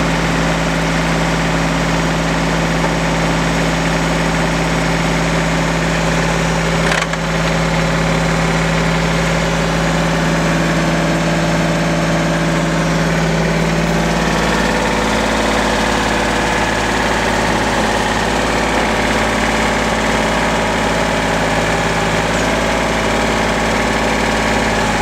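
Kubota L3410 tractor's diesel engine running steadily, its note changing about halfway through.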